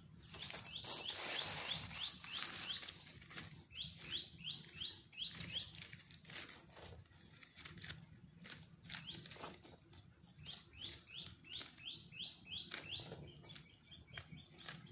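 A bird calling in three runs of about seven short, quick notes each, every note sliding down in pitch, roughly three notes a second. A noisy rustle and scattered clicks run underneath.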